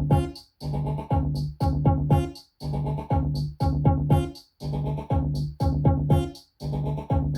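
Electronic music from a Eurorack modular synthesizer: a looping pattern of a held bass note, synth chords and pitch-dropping kick drum hits. The loop repeats about every two seconds, with a brief silence at the end of each pass.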